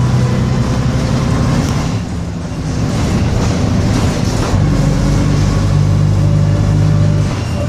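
Bristol RE bus engine running under load. It eases off about two seconds in and picks up again, with another dip near the end.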